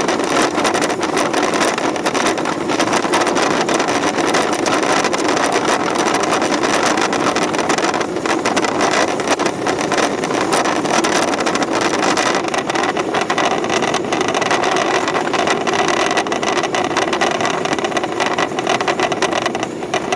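Electric local train on the JR Tokaido Line running at a steady speed: continuous wheel and rail noise with a constant rumble.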